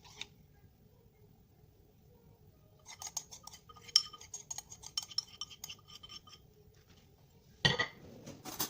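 Metal utensil stirring in a bowl, with a run of quick, ringing clinks against the bowl over about three seconds. Near the end come two louder knocks.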